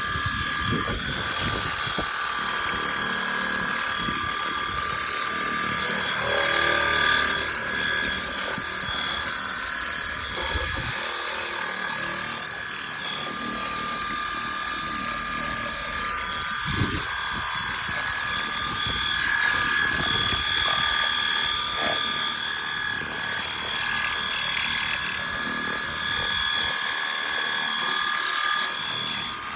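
Stihl RCA 20 cordless battery pressure washer running steadily in its lower eco mode, its electric motor and pump whining in a few steady tones over the hiss of the water jet as it sprays a muddy lawnmower.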